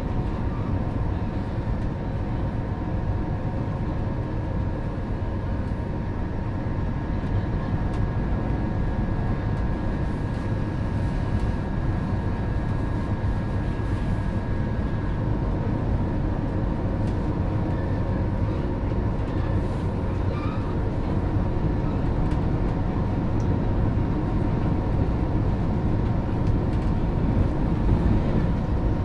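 Electric commuter train running steadily at speed, heard from inside the carriage: a constant rumble of wheels on the rails under a steady traction motor whine.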